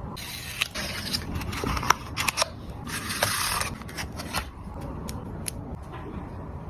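Packaging being handled and opened: two stretches of sharp rustling and scraping with several clicks in between and after, over a low steady rumble.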